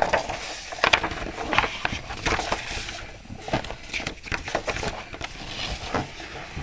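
Handling noise: irregular rustles and light knocks, busier in the first three seconds and sparser after.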